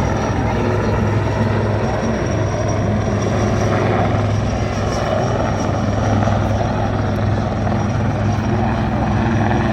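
Military helicopter in flight at an air display, its rotor and engine giving a steady, loud drone.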